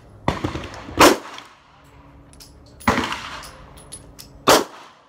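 Four gunshots from a 9mm AR-15 pistol with a 5-inch direct-blowback upper, fired singly at uneven intervals: two shots close together early on, then two more about three and four seconds in.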